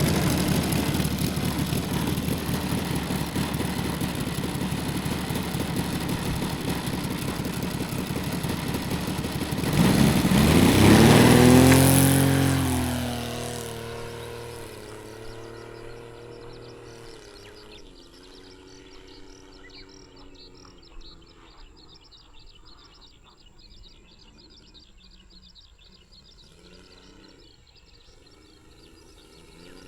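Saito FG60-R3 three-cylinder radial four-stroke petrol engine of a quarter-scale RC Sopwith Pup running at high power with a 22x10 propeller. About ten seconds in it passes close and gets louder, its pitch rising then dropping, and then it fades into the distance, the engine note wavering as the plane flies.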